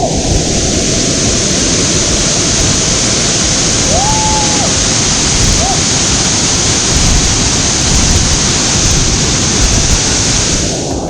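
Waterfall: a loud, steady rush of falling water with a hiss that reaches well up into the highs.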